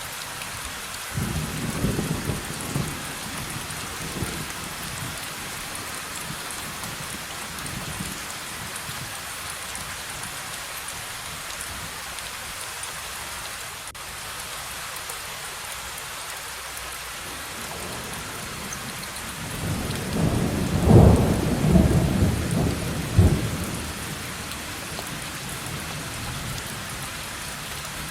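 Steady heavy rain with rolls of thunder: a short rumble a second or two in, and a louder, longer roll of thunder about twenty seconds in.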